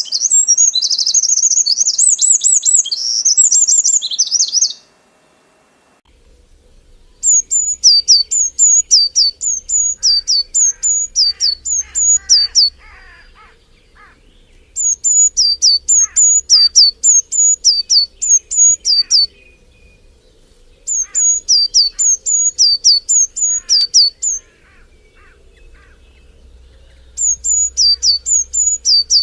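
Songbirds singing. A dense, high warbling chatter cuts off abruptly about five seconds in. Then a bird sings bouts of sharp, high, down-slurred notes, two to three a second, each bout lasting around five seconds with short pauses between, over fainter lower chirps from other birds.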